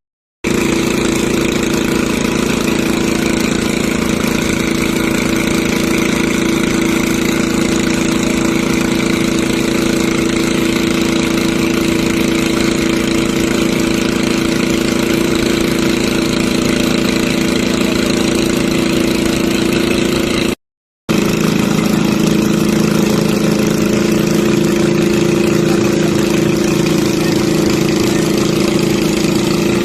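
Engine running steadily at a constant speed. It cuts out briefly twice, near the start and about two-thirds of the way through, and comes back with a slightly different pitch.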